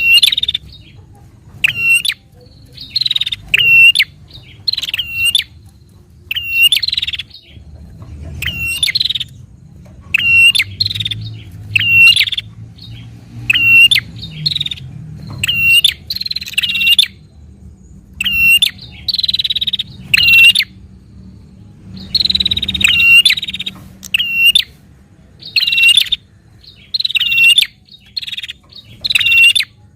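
Prinia (prenjak) calling: loud, sharp chirping calls repeated about once a second, some single and some doubled or drawn out, in the excited fighting call used to provoke other prinias.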